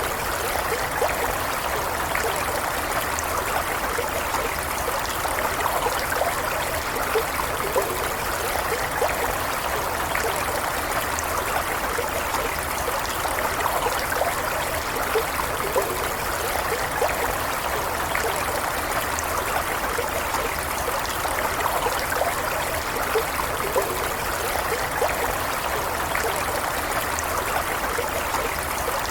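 A shallow stream running steadily over stones, with a continuous trickling and bubbling.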